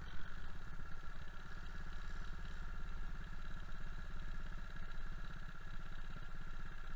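Small minibike engine running steadily at a low, even speed, its firing pulses regular throughout.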